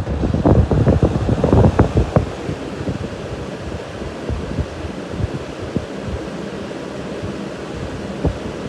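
Wizard 20-inch four-blade box fan switched to high and running, a rush of moving air with a faint motor hum. It is gusty and louder over the first two seconds, then settles to a steady rush.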